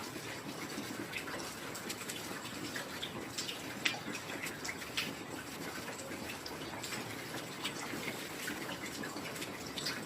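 Heavy rain falling steadily, with many close drops and drips standing out from the hiss; one sharper drop lands about four seconds in.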